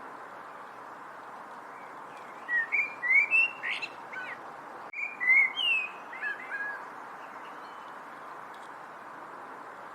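A songbird sings two short phrases of quick, sliding whistled notes, about two and a half seconds in and again about five seconds in, over a steady background hiss.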